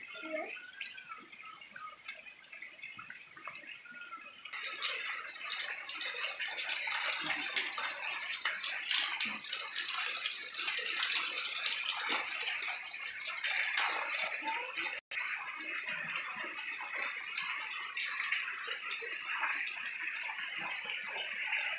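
Heavy rain falling on puddles and muddy ground: a steady hiss of drops. It gets louder about four seconds in and drops back about fifteen seconds in.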